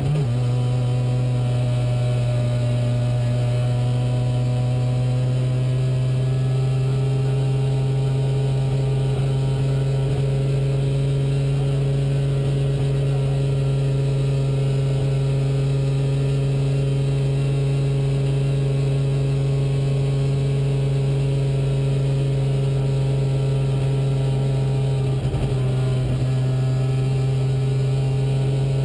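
Rally car engine heard from inside the cockpit, held at a steady high speed in fifth gear on a snowy road, its note staying almost level throughout. A brief low thump comes near the end.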